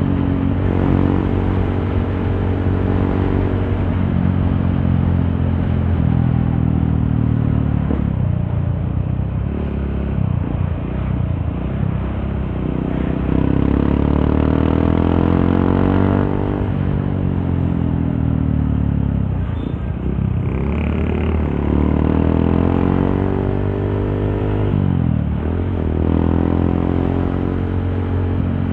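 Honda CRF150L's single-cylinder four-stroke engine through an aftermarket Norifumi exhaust while riding: the engine note climbs as it accelerates, then drops off as the throttle closes, several times over. Heard from inside the rider's helmet.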